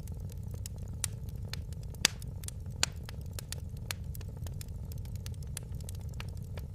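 Wood fire in a fireplace crackling, with a steady low rumble under a constant scatter of small snaps; a few louder pops stand out about one, two and three seconds in.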